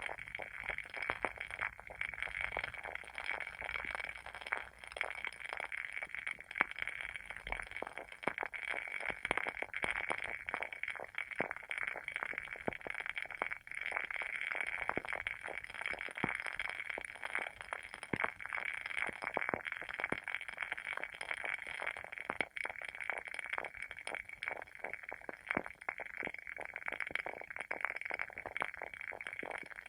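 WoodWick candle's wooden wick crackling as it burns: a dense, continuous run of small sharp pops and ticks, like a tiny campfire.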